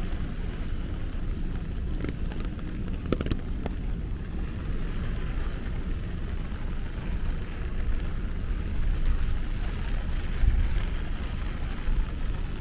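Steady rain, an even hiss, over a constant low rumble, with a few faint ticks about two to three and a half seconds in.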